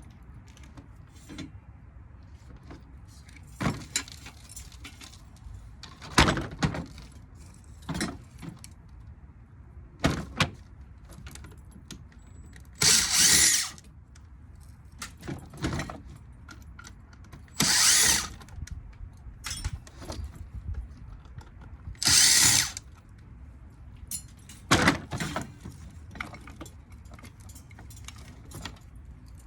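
Ceiling-fan motor being dismantled: scattered metal clinks and knocks, with three short, harsh bursts of noise (about a second each) that are the loudest sounds, typical of a power tool such as a drill run briefly.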